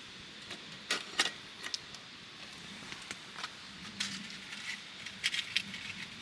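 Scattered light clinks and taps of small hard objects being handled, with two sharper strikes about a second in and a quick cluster near the end.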